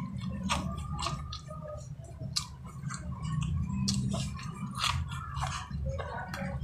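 Close-up mouth sounds of a person biting into and chewing boiled corn on the cob: irregular wet clicks and small crunches of the kernels.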